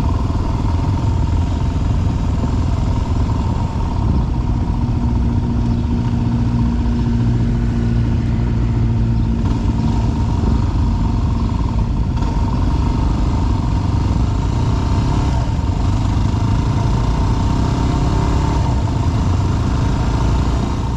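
WR dirt bike's single-cylinder engine running steadily under way on a rough mountain trail, with a dense low rumble.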